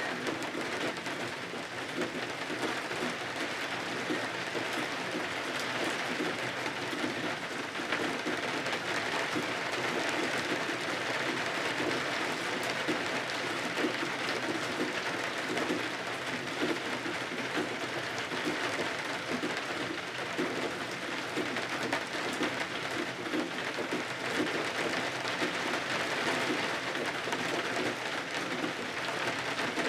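Steady rain falling against windows: an even hiss with dense fine patter that does not change.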